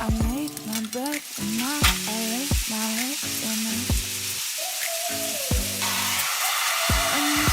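Food sizzling as it fries, a steady hiss that grows louder about six seconds in, under background music with a regular beat.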